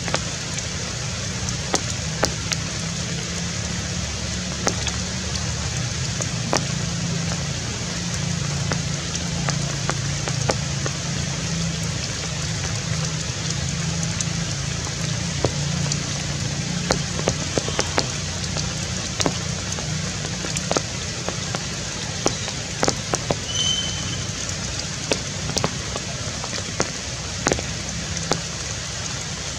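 Rain pattering on forest foliage: a steady hiss with scattered sharp drip ticks. A short high chirp sounds about two-thirds of the way through.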